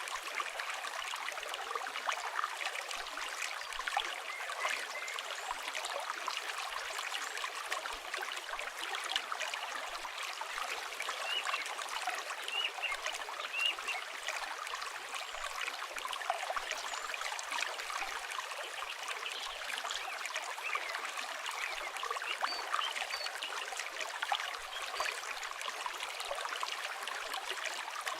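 River water flowing steadily, mixed with the fine popping crackle of a campfire and a few brief bird chirps.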